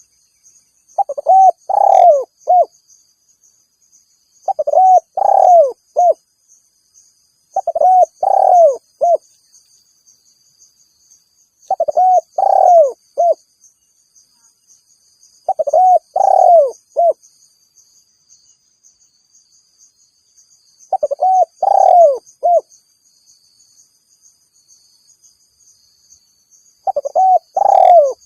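Spotted dove (tekukur) giving its territorial challenge call: a phrase of several low coos repeated seven times, each phrase about a second and a half long and a few seconds apart. A faint steady high-pitched tone runs behind it.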